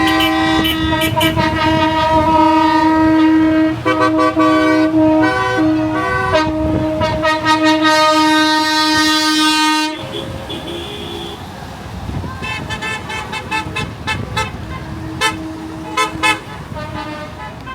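Lorry horns sounding as the trucks pass, several overlapping in long steady blasts. About ten seconds in they drop to quieter, shorter repeated toots.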